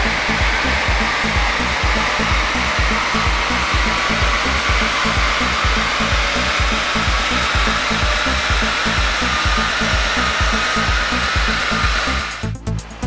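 BMW 530d's straight-six diesel run hard on a chassis dynamometer: a loud, steady rush of engine, rollers and cooling air, with music thumping a steady beat underneath. The rush cuts off suddenly about a second before the end, leaving only the music.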